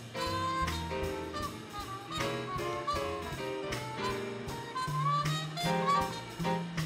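Small jazz band playing in swing time: a trumpet carries a melodic line with bends over piano, bass and drums.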